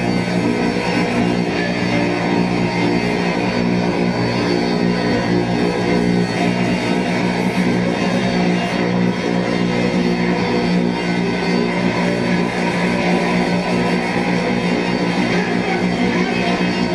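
Dense, steady drone music: low sustained tones layered under a wash of noise, with no beat or pause.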